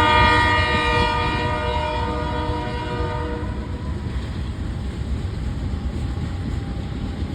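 A Union Pacific freight train's GE locomotive sounding a multi-note air horn chord that fades out about four seconds in, over the steady low rumble of the train passing.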